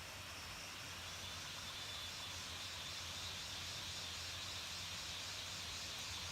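Steady outdoor background hiss that grows a little louder about a second in, with a faint high buzz running through it.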